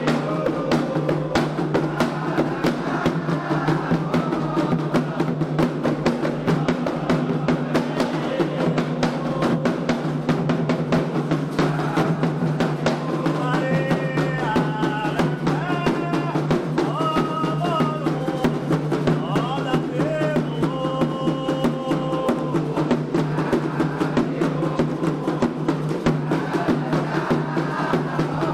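Candomblé ritual music: hand drums played in a fast, steady rhythm with many quick strokes, with group singing standing out in the middle of the stretch.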